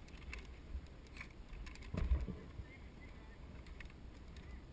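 Faint clicks and rattles, with a dull thump about two seconds in, over a low rumble on the microphone.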